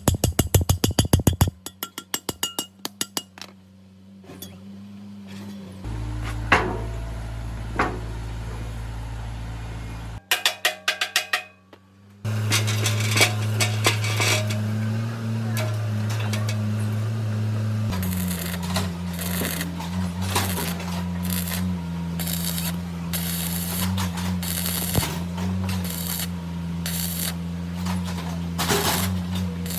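Workshop sounds in several short cuts: rapid regular metallic clicking, then an electric power tool running with a steady hum, overlaid from about two-thirds of the way in by repeated sharp metal clinks and knocks.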